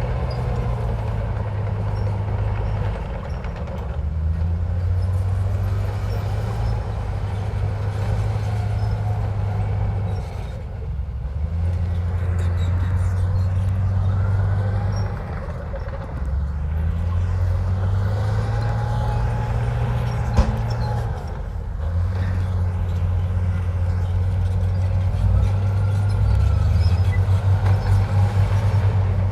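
Komatsu bulldozer's diesel engine working under load. Its low drone rises and drops every few seconds as the machine pushes dirt and backs off, with faint high squeals and one sharp knock about two-thirds of the way through.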